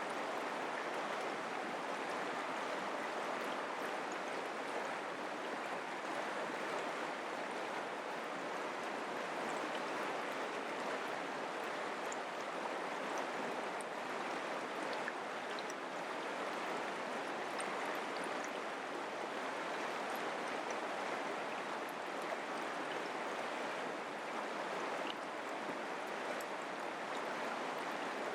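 Mountain creek flowing: a steady, even rush of water, with faint small splashes and ticks over it.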